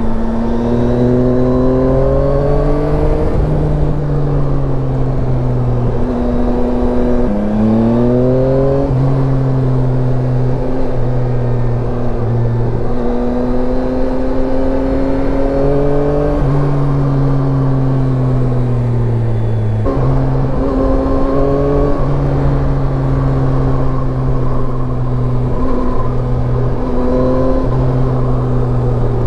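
Yamaha Tracer 9's inline-three engine pulling under throttle. The pitch climbs, then drops sharply several times at gear changes or throttle lifts, over a steady rush of wind and road noise.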